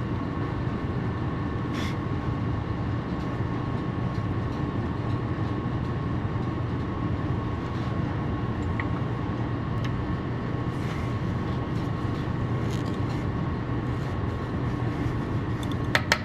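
A steady mechanical drone with a faint constant whine, unchanging throughout, with a few light clicks.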